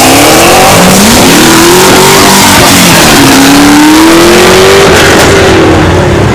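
Car engine revving hard during a burnout, its pitch climbing in repeated long sweeps over a dense hiss of spinning tyres. Near the end it briefly eases off, then climbs again.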